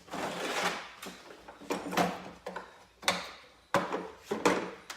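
Metal-on-metal scraping and clicking, with about four sharp knocks, as snap ring pliers are worked at the snap ring on the motorcycle's clutch hub.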